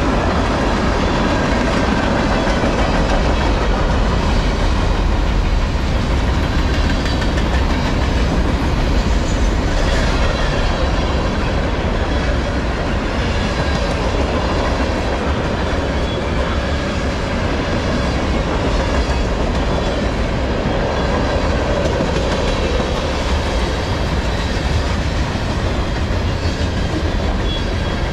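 Cars of a loaded mixed freight train rolling past at close range: a steady, loud noise of steel wheels running on the rails, heaviest in the low end.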